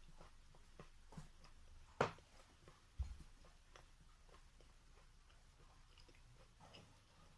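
Wet natural chalk being bitten and chewed close up: faint soft crackling crunches, with one sharper crunch about two seconds in and a low thump a second later.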